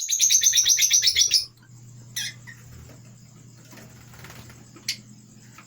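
Small birds chirping: a loud, rapid run of high chirps for about a second and a half, then two short single calls later on.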